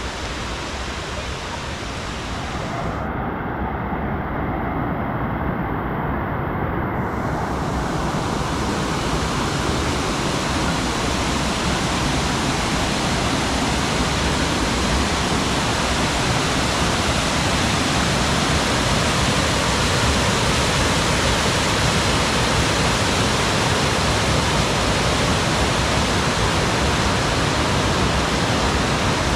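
Double Decker Falls rushing steadily, a continuous full rush of falling water that grows louder over the first several seconds and then holds.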